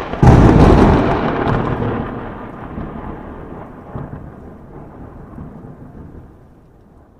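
A train passing through the station close to the microphone: a loud rush and rumble that jumps up suddenly about a quarter second in, then dies away over about six seconds.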